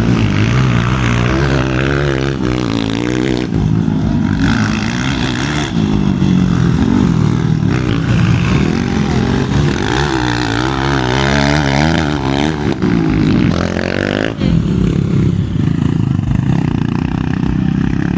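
Motocross motorcycle engines revving hard, their pitch climbing and dropping again and again as the throttle is worked.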